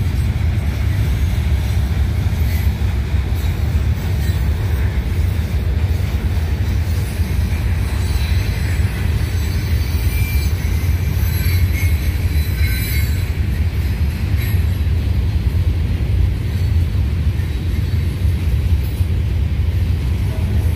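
Train rolling past close by: a steady low rumble of wheels on the rails, with a few brief high wheel squeals around the middle.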